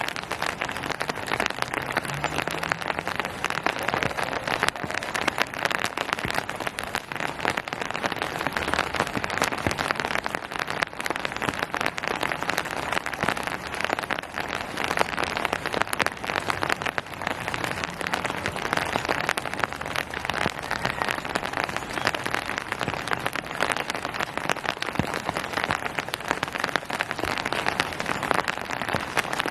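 Steady rain falling and pattering on surfaces, a dense even hiss full of fine drop ticks.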